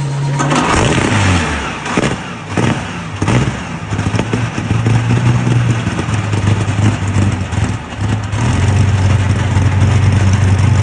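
Rolls-Royce Merlin 27-litre V12 aero engine, fitted in a car, running loud with a deep note. It is blipped to higher revs several times in the first few seconds, then runs more steadily and gets louder towards the end.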